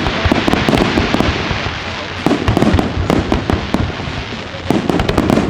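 Fireworks display going off: a dense run of sharp bangs and crackles close together over a continuous rumble and hiss.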